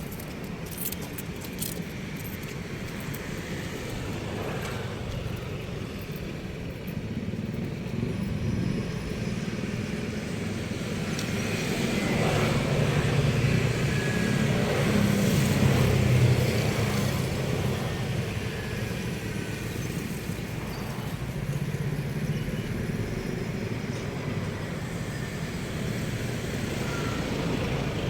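Road traffic: engine and tyre rumble from passing vehicles, swelling as one vehicle passes close in the middle and then fading.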